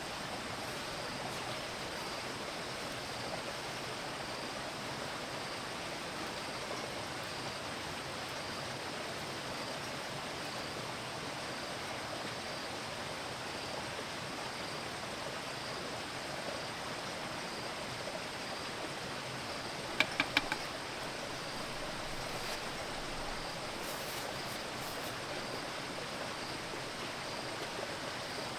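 Steady, even rushing noise, with a faint regular pulse high in pitch. About twenty seconds in, four quick sharp knocks.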